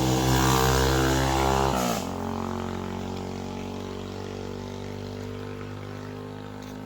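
A vehicle engine passing close by. Its pitch drops about two seconds in as it goes past, then it runs on steadily and slowly fades as it moves away.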